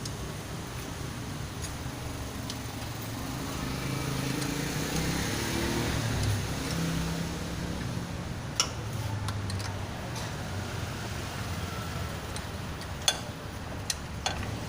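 Steady road-traffic noise that swells as a vehicle passes about four to seven seconds in, then eases. A few sharp clicks come in the second half.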